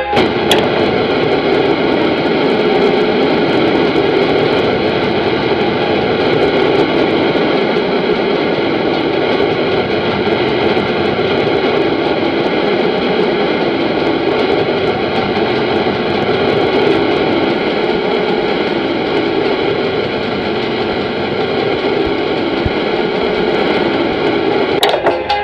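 Airplane engines running, a loud, even noise with faint steady whining tones that holds level throughout without rising or falling.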